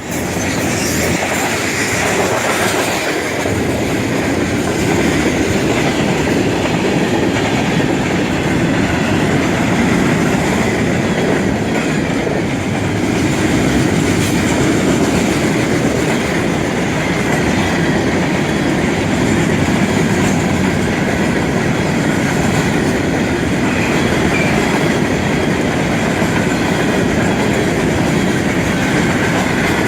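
Florida East Coast Railway freight train's cars, a mixed manifest and intermodal train, rolling past: steel wheels running over the rails in a loud, steady, unbroken rumble.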